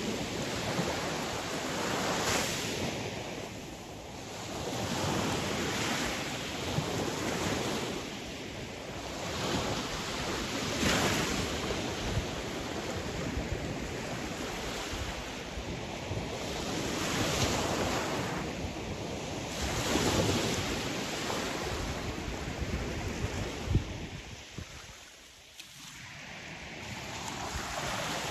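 Sea waves washing ashore, the surf swelling and easing every few seconds, with a short lull near the end.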